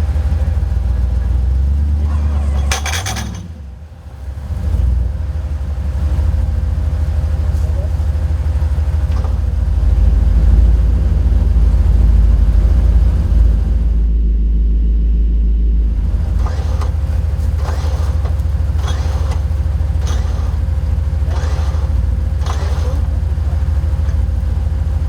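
Nissan GQ Patrol 4x4 truck's engine running under way, heard on board as a heavy low rumble. It drops away briefly about three to four seconds in, then comes back.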